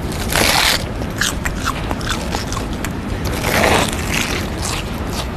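A person crunching snack chips loudly and on purpose. There are two louder crunching bursts, about half a second in and about three and a half seconds in, with smaller crackles between them.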